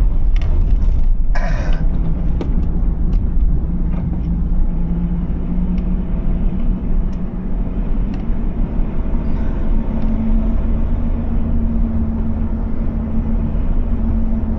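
Car driving on the road, heard from inside: a steady low rumble of engine and tyres with a droning hum that rises slightly in pitch about ten seconds in. A short rushing noise comes about a second and a half in.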